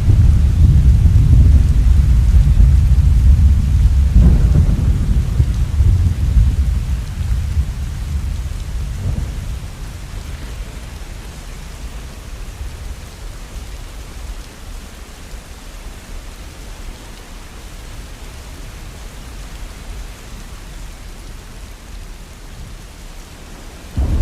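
Thunder over steady rain. A long low rumble swells again about four seconds in and once more about nine seconds in, then dies away, leaving the rain's hiss. Near the end the rumble cuts back in suddenly.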